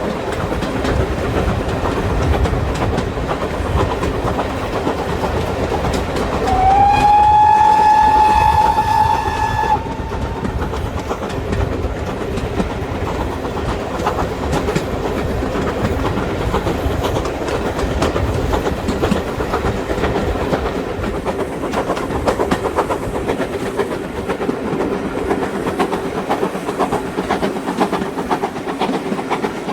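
A steam train running on rails with steady wheel clatter. About six seconds in, the locomotive's whistle blows once, a single steady note lasting about three seconds that rises slightly as it starts.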